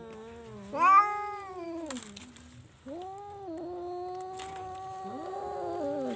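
Domestic cats yowling: a loud rising-and-falling call about a second in, then a long, drawn-out, held yowl from about three seconds on, with a second cat's voice overlapping it near the end.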